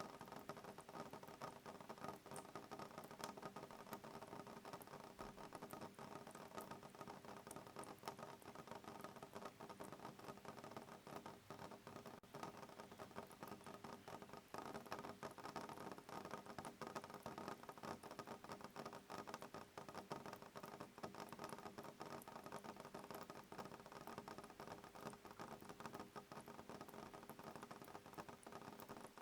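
Soft rain pattering on a window pane: a faint, steady, dense stream of small drop ticks.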